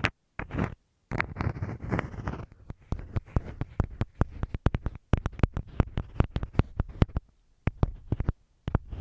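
Close-up scratching and tapping on masking tape over a microphone. There is a stretch of crackly rubbing, then from about three seconds in a quick run of sharp little clicks and scrapes, with short silent gaps between.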